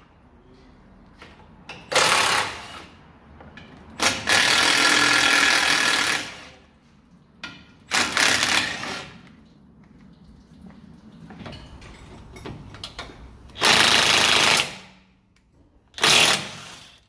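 Impact wrench hammering off bolts in five short bursts, the longest about two seconds, with pauses between them.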